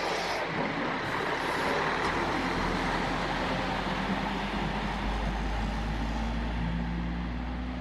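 A bus engine running with road noise; its low hum swells about two and a half seconds in and stays steady.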